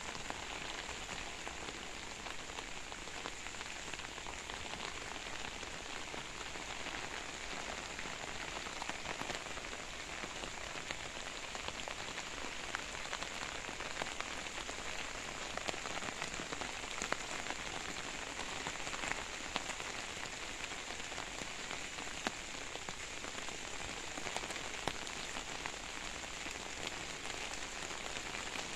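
Steady rain falling on forest foliage, with scattered drops ticking close by.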